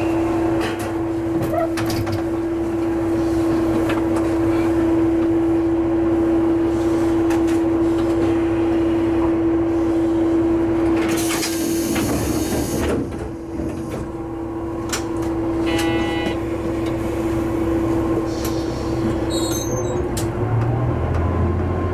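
Diesel railcar standing with its engine idling in a steady hum. About halfway through there is a short hiss of air, then a brief electronic tone, and near the end the engine note deepens and rises as the railcar pulls away.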